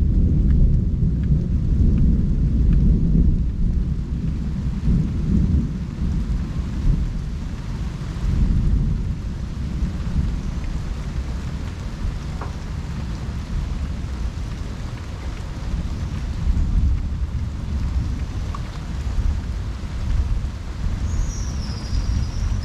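Thunder rumbling low and long during a rainstorm, heaviest over the first few seconds and then easing off, with steady rain. A short high chirp sounds near the end.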